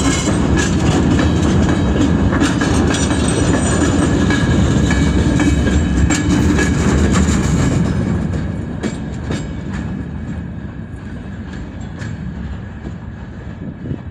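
Freight train hauled by a ChME3 shunting diesel locomotive rolling past slowly on a siding, its wagon wheels clacking over the rail joints. The sound fades away after about eight seconds as the train moves off.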